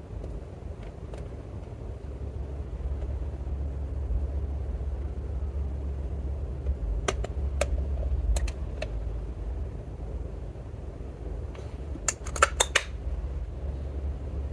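Slime being worked by hand: a steady low rumble with scattered sharp clicks and pops, a few about seven to nine seconds in and a quick, louder cluster near the end.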